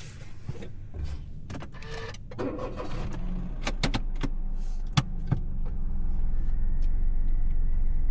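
Inside a car: a run of sharp clicks and knocks from the cabin, then the low rumble of engine and road noise growing louder as the car gets under way and then holding steady.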